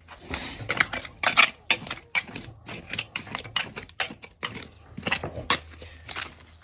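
Dirt and loose debris being scraped and dug out of a hole in a basement concrete floor: a quick, irregular run of gritty scrapes and clicks, several a second.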